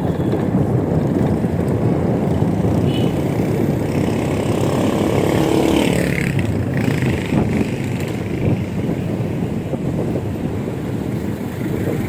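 Wind rushing over the microphone during an e-bike ride, with road traffic; a motor vehicle passes about four to seven seconds in, its engine pitch dropping as it goes by.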